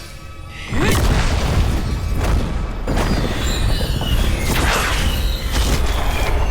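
Animated-fantasy soundtrack effects: a deep rumbling boom breaks in suddenly just under a second in and keeps rumbling, with whooshing surges, over dramatic music.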